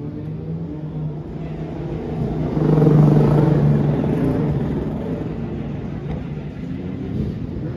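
Racing superbike engine running; the engine sound swells to its loudest about three seconds in, then eases off.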